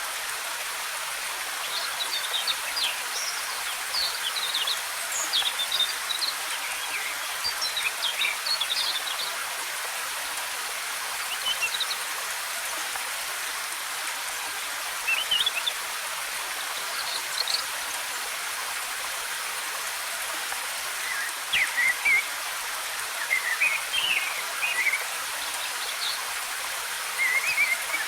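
Steady rush of falling water from a waterfall, with small birds chirping in short, high bursts throughout, most busily in the first few seconds and again near the end.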